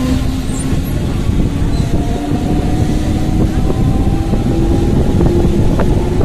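Electric local train (EMU) picking up speed out of a station: a steady rumble of wheels and running gear with a traction-motor whine that rises slowly in pitch. Wind buffets the microphone at the open doorway.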